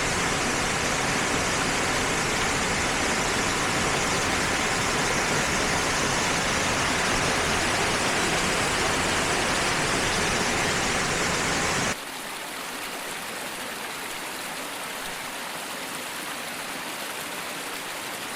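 Waterfall rushing, a steady roar of falling water. About twelve seconds in it drops suddenly to a quieter, thinner rush with less low rumble.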